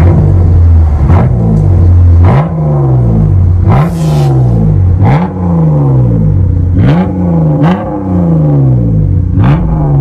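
2016 Chrysler 200 V6 running through a Street Demon cat-back split dual exhaust, revved in about seven quick blips. Each blip rises sharply and falls back to a deep idle rumble.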